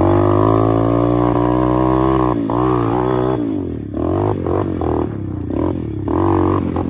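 125 cc pit bike engine running under way, steady for about two seconds, then its pitch repeatedly dipping and rising as the throttle is closed and opened again.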